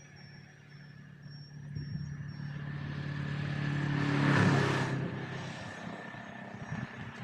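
A motor vehicle passing by: its engine hum and tyre noise build up, peak about four seconds in, then fade away.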